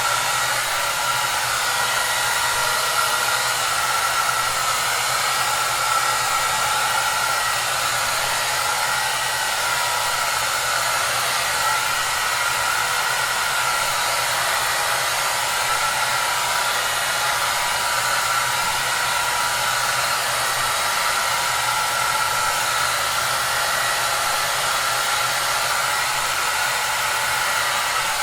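Hair dryer running steadily: a constant airy rush with a faint motor whine, unchanging throughout.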